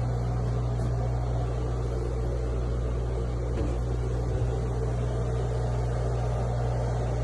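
Steady low mechanical hum of machinery running in a yacht's engine room, an even drone with a deep, constant pitch that does not change.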